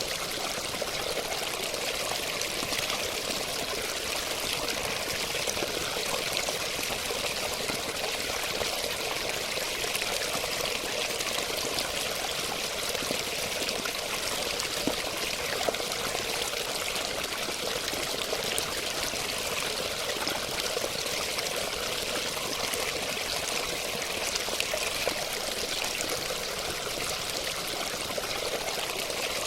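Running water flowing steadily, an even continuous rush with no pauses or changes.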